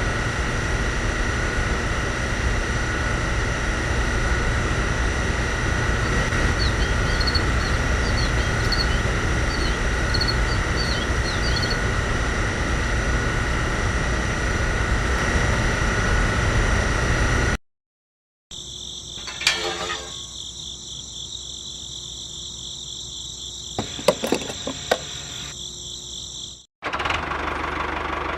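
A small motor running steadily with a whine, in three edited stretches: a long even run that cuts off abruptly, a quieter stretch with a higher whine and a few clicks, then another steady run.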